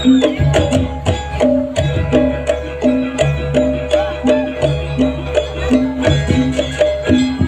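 Gamelan music with drums: short pitched metal strikes repeat in a quick, even pattern over a low drum pulse.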